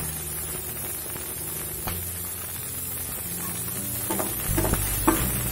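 Shallots, garlic and curry leaves sizzling in hot sesame oil in a steel kadai, with a spatula scraping and knocking against the pan a few times as they are stirred.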